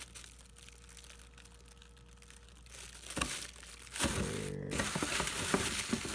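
Firework packaging being handled: a short rustle about three seconds in, then loud crinkling and scraping of cardboard and plastic from about four seconds in, as the parts go back into their box.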